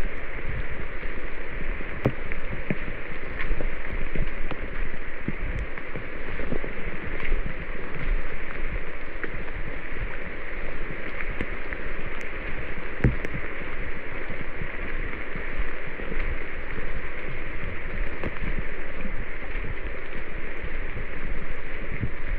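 A steady rush of water, with a few faint clicks and knocks scattered through it.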